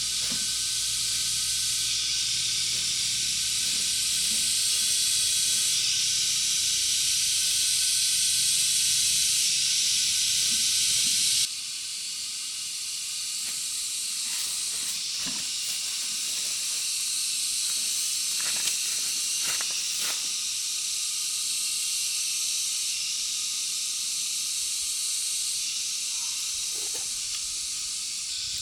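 A steady high-pitched hiss of outdoor background noise that jumps abruptly in level several times, as at edit cuts. A few faint clicks and knocks come through after the middle.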